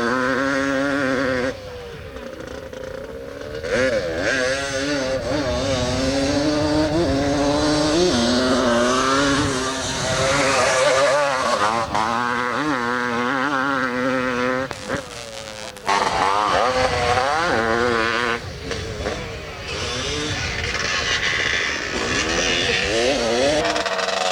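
Several 250 cc two-stroke motocross motorcycles racing. Their engines rev up and down as the riders work the throttle, with the pitch rising and falling and overlapping from more than one bike. The sound dips briefly a couple of times.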